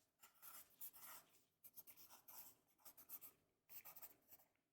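Faint pencil scribbling on paper: quick scratchy strokes in about four runs with short pauses between them.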